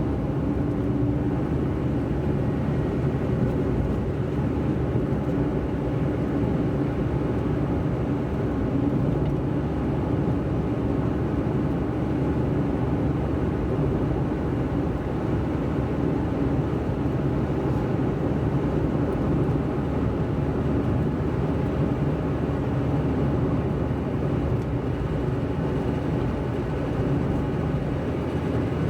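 A car driving along a road: a steady low rumble of tyre and engine noise with a faint, even hum.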